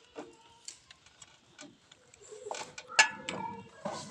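Light metallic clicks and clinks of a motorcycle chain and hand tools being handled, with short ringing after some strikes. The clinks are sparse at first, then come in a denser, louder cluster about three seconds in.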